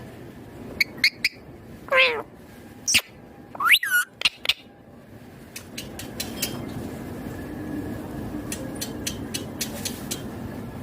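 Indian ringneck parakeet calling: a few short chirps, then two loud gliding calls, the first falling in pitch about two seconds in, the second rising then falling about four seconds in. After that the bird goes quiet, leaving scattered small clicks over a steady low background noise.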